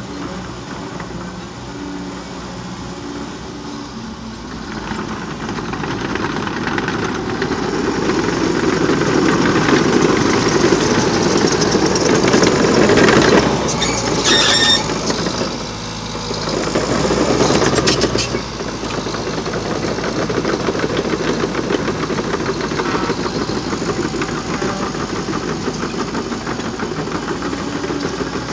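Liebherr PR 726 crawler dozer working: its diesel engine runs steadily, then grows louder under load to a peak about halfway, dips briefly and swells again before settling back. Clusters of short knocks come at the loudest moments.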